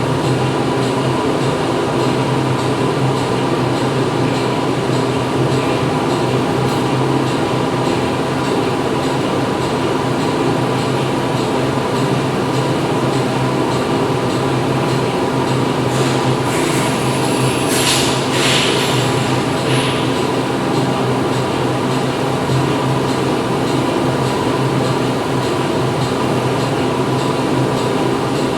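Factory machinery running inside a factory hall: a loud, steady drone made of several constant hums. About two-thirds of the way through, a few seconds of high-pitched noise and clicks rise over it.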